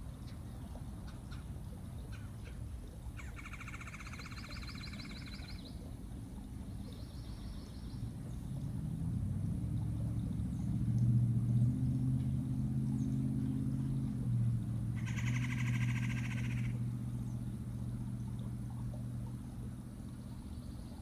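A bird's rapid pulsing trill, twice: about three seconds in and again at about fifteen seconds. Under it is a low, steady engine hum that grows louder from about eight seconds in and shifts in pitch before settling.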